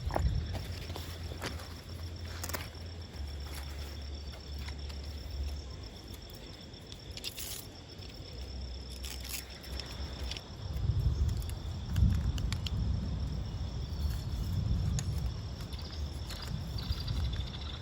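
Steady, high-pitched chorus of insects running throughout. Underneath it there is a low rumble that swells in the second half, and scattered short clicks and knocks.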